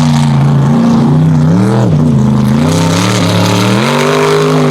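Mega truck's engine running hard under throttle on a race course. Its pitch holds, dips sharply a little under two seconds in, then climbs again as the throttle is worked.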